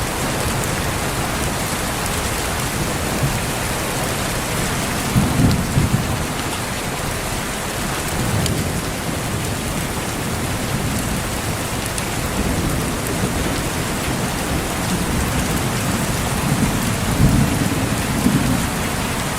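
Steady rain pattering, with distant thunder rolling in low rumbles several times, loudest about five seconds in and again near the end.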